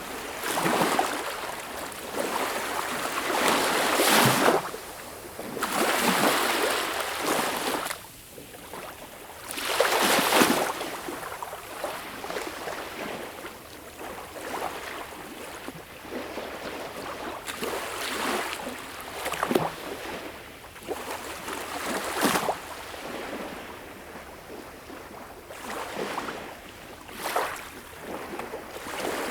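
Sea waves breaking and washing in, in irregular surges that swell and fade. The biggest come in the first ten seconds, followed by smaller, sharper splashes.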